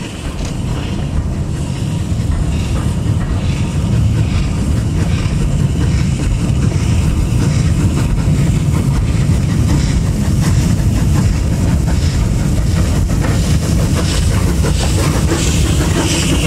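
A train running on the rails, its rumble growing louder over the first few seconds and then holding steady.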